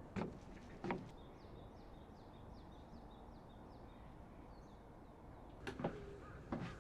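A small bird calling a quick series of about nine short, falling, high notes in the middle, against outdoor background noise. A few sharp knocks, the loudest sounds, come near the start and again near the end.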